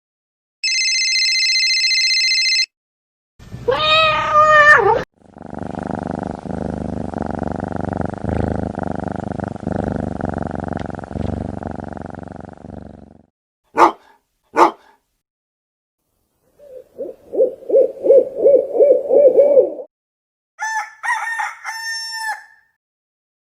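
A string of separate short sound effects one after another: a steady electronic beep, a rooster crowing, a long noisy stretch, two sharp clicks, a quick rhythmic pulsing sound and a high warbling call.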